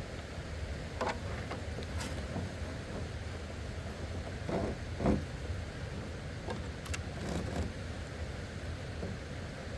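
Steady low outdoor rumble with several short knocks and taps scattered through it, the loudest about five seconds in.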